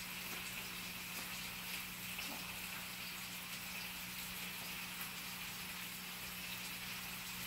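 Steady sizzle of food frying in a non-stick skillet on the stove, over a constant low hum.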